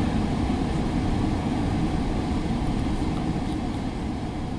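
Steady rumble of a GO Transit Kitchener Line train heard from inside a passenger coach as it rolls along the track, starting to fade near the end.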